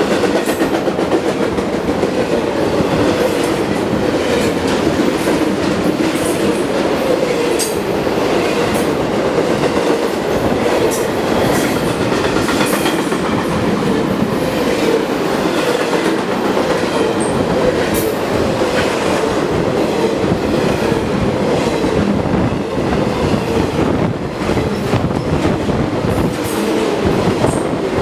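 BNSF intermodal freight train passing at speed: a steady rolling rumble of wheels on rail, with scattered sharp clicks as the wheels cross rail joints.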